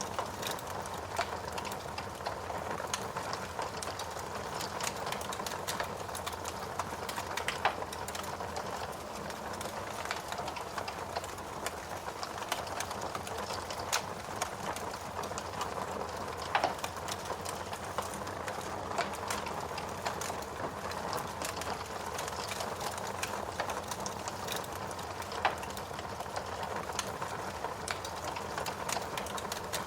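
Wood fire burning in a fireplace: a steady hiss of flames with continual small crackles and a few louder pops from the burning wood.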